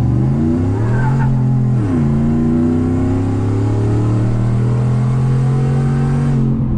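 Ford F-150 V8 with its catalytic converters deleted, heard from inside the cab under full-throttle acceleration. Revs climb, the automatic upshifts about two seconds in, revs climb more slowly, and it shifts again near the end.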